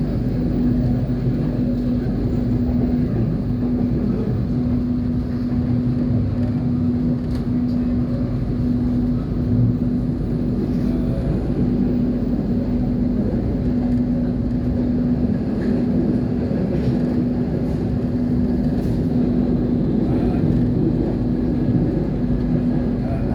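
KAI train running at speed: a steady low rumble with a constant hum held over it.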